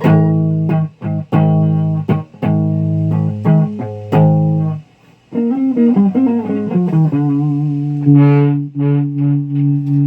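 Electric guitar played through a fuzz pedal, the Rusty Fuzz, giving a thick, distorted tone. Chords are struck and cut short several times, then comes a quick run of changing notes about halfway through, then held notes near the end.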